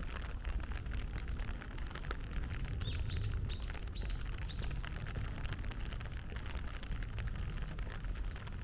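Heavy rain falling steadily, with a dense patter of drops. About three seconds in, a bird gives four sharp, high calls about half a second apart.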